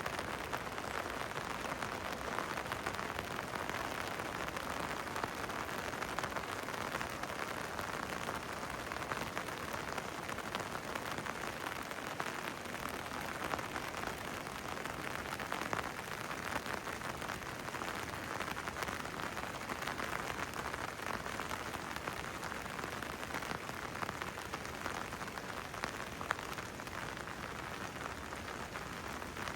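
Rain falling steadily, a dense, even hiss of many small drop hits with no let-up.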